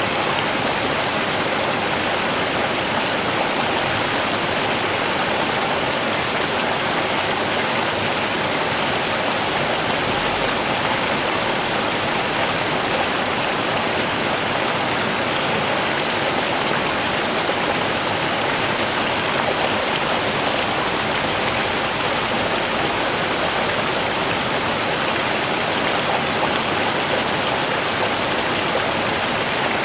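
Slow river flowing, a steady even rush of water.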